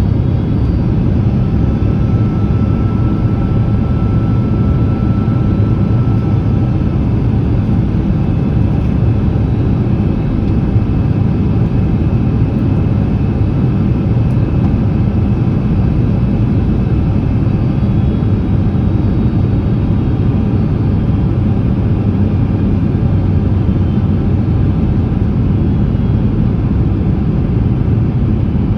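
Steady roar of engines and airflow inside the cabin of a Boeing 767-300ER airliner on its final approach, with slats extended. A faint, thin steady tone sits above the roar for a few seconds near the start.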